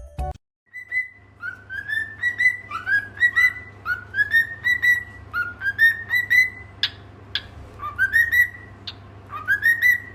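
Repeated short whistling notes, each rising in pitch, about two a second, over a steady low hum.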